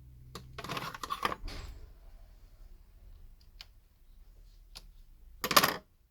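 Small tools and phone parts handled on a workbench: scattered clicks and light clatter, with a louder rattle about a second in and the loudest, short one near the end.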